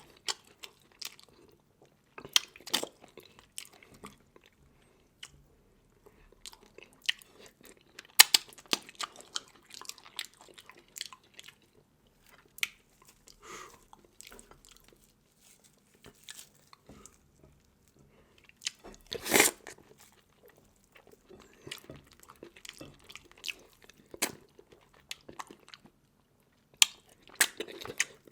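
A person eating seafood close to the microphone: irregular chewing and crunching with sharp cracks and clicks, the loudest crunch about nineteen seconds in.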